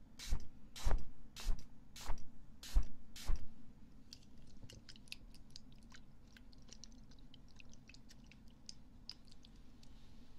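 Ear-cleaning ASMR sounds on a close microphone: six loud scraping strokes about half a second apart, then many faint crackling clicks.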